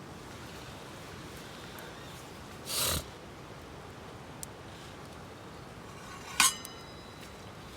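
A short rustling burst about three seconds in, then a sharp metallic clink with a brief ring near the end, over a faint steady hiss: camp gear being handled.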